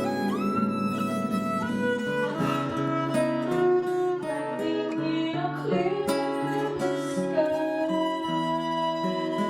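Acoustic band music: plucked guitar chords under a bowed string melody with sliding held notes.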